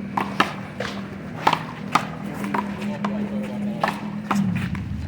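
A handball rally: the small rubber ball being slapped by hand and smacking the wall in quick, irregular cracks, about nine in all, over a steady low hum that drops away near the end.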